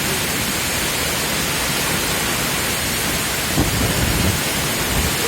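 Waterfall: water rushing in a steady, dense roar, with deeper rumbles swelling in over the last second or two.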